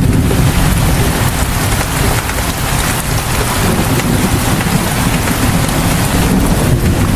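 Steady rain falling, a dense continuous hiss with a low rumble underneath.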